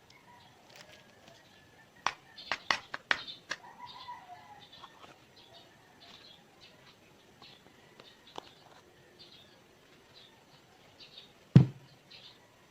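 Birds chirping faintly in the background, with a quick run of sharp knocks about two seconds in and a single heavy thump near the end.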